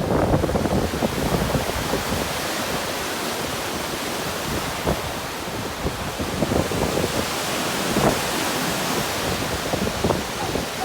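Fast-flowing floodwater rushing as a loud, steady noise, with wind buffeting the microphone in irregular gusts.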